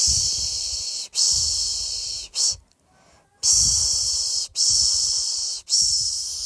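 A person shushing ('pışş pışş') to lull a baby to sleep. A run of long 'shh' sounds, each about a second long, is broken by short breaks and a brief pause a little before the middle.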